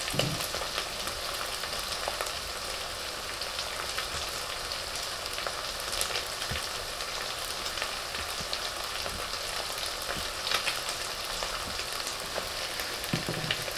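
Beef, onions, garlic and ginger frying in hot oil in a pot: a steady sizzle with scattered small crackles and pops.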